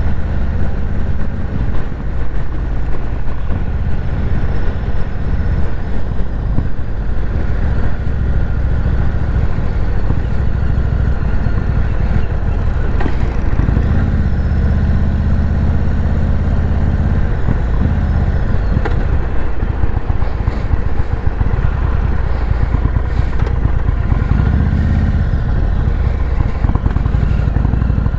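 Indian Chief Bobber's 116 cubic-inch air-cooled V-twin running under way, heard from the rider's seat with wind noise over it. The engine note changes a few times with the throttle as the bike rides on and then slows into a parking lot near the end.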